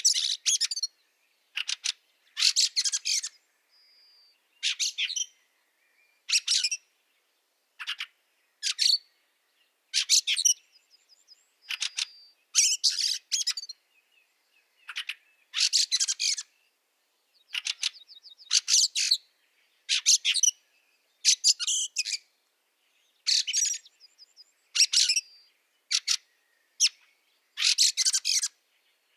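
Fieldfares giving harsh, rasping chattering calls: short clusters of quick notes repeated about every second, with a few faint thin whistled notes in between.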